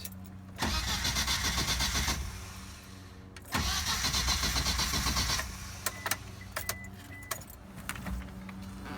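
Starter motor cranking the freshly installed engine of a 1998 Isuzu Amigo in two bursts of about two seconds each, a fast rhythmic churning that stops without the engine catching. A few sharp clicks follow.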